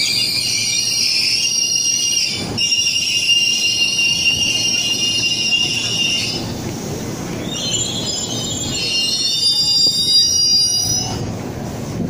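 Ex-Tokyo Metro 7000 series electric train squealing high-pitched as it brakes to a stop at the platform, over a low rumble. The squeal comes in two spells, the first fading about six seconds in and the second from about seven and a half to eleven seconds in.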